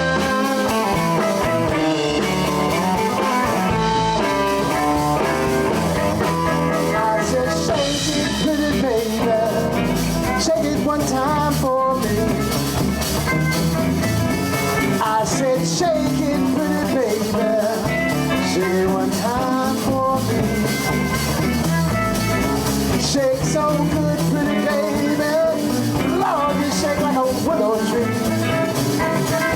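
Live electric blues band playing: guitars with bending lead lines over bass and drum kit.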